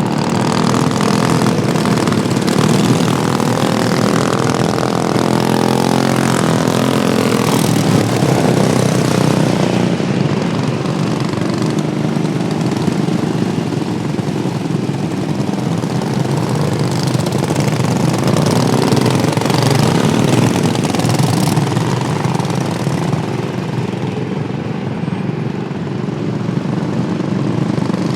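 Racing lawn mower engines running on the track, their pitch rising and falling as they speed up and ease off.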